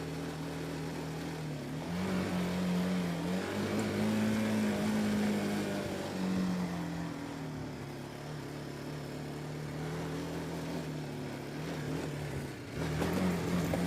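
BMW G310 GS's single-cylinder engine running as the motorcycle is ridden, its pitch rising with the throttle and then dropping back. There is a louder rush of noise near the end.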